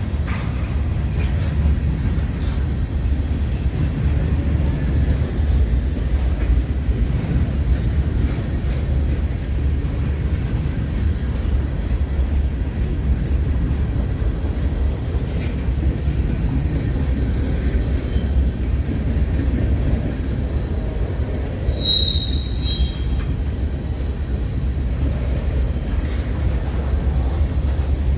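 Railroad cars rolling past in a steady low rumble, with a brief high wheel squeal about three-quarters of the way through.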